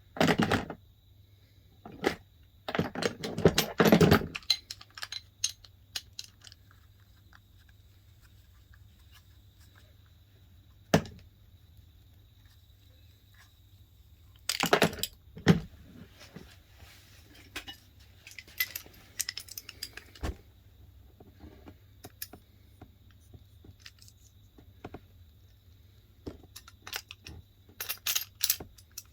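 Irregular metallic clicks, clinks and clatter of a flaring tool and its parts being handled and set up, in scattered bursts with short quiet gaps between.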